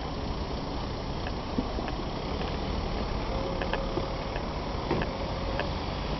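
A car engine running steadily, with a few light clicks over it.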